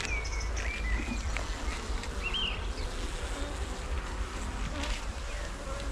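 Honeybees buzzing around an open hive: a steady hum from a crowded colony. A few short whistled notes sound over it.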